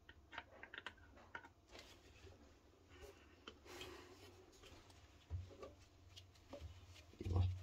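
Light handling noises from fitting plastic washing-machine pump parts and hose: a quick run of small clicks, then soft rubbing, and a couple of dull knocks.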